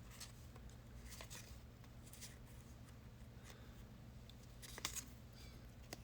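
Faint rustles and light clicks of trading cards being handled and slid one past another as a pack is looked through, the loudest a little before five seconds in, over a low steady hum.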